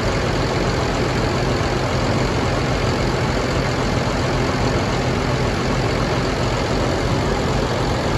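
2009 Cummins ISB6.7 6.7-litre inline-six turbodiesel running steadily at idle.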